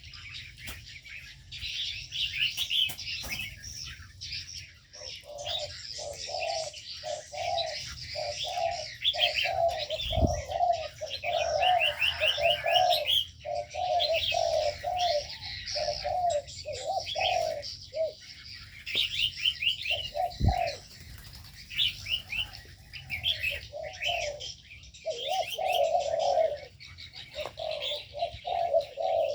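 Spotted doves cooing in repeated phrases, with many small birds chirping and twittering over them in the aviary. Two dull thumps come through, about a third and two thirds of the way in.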